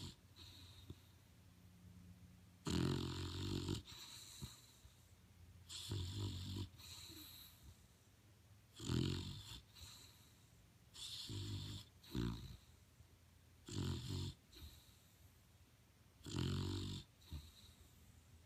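Pit bull snoring: a rattling, buzzy snore on each breath, repeating about every two and a half to three seconds.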